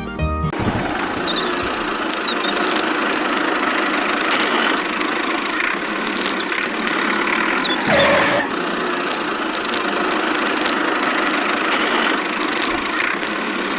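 A small motor running steadily with a whirring buzz, with a brief falling sweep in pitch about eight seconds in.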